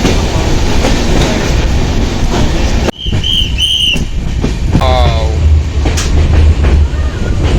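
Passenger train running on the rails, a steady rumble with wheel and coach clatter. It breaks off sharply for a moment about three seconds in. Two short high tones and a brief rising call follow over the same running noise.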